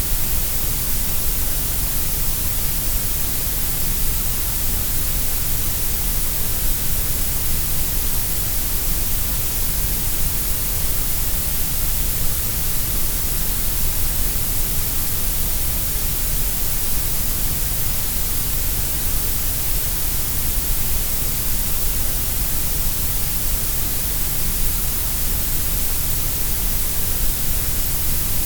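Grey noise: steady synthetic noise, even and unchanging, with more weight in the lows and highs than in the middle.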